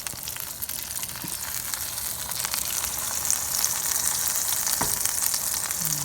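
Food sizzling and crackling in a hot frying pan, a dense steady crackle that grows a little louder about halfway through.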